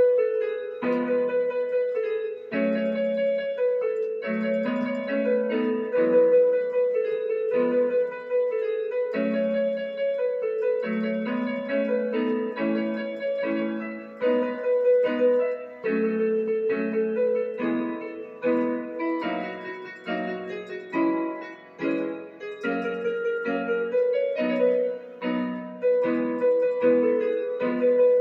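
Battery-powered electronic keyboard playing a piece: a melody over lower chords, note after note without a break.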